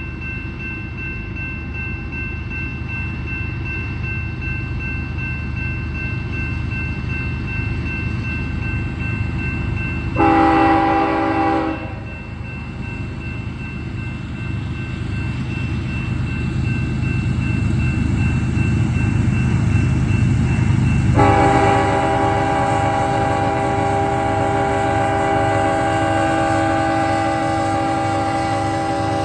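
Diesel locomotives of a freight tank train rumble steadily and grow louder as the train approaches. The locomotive horn sounds a short blast about ten seconds in, then a long blast that starts about two-thirds of the way through and holds to the end.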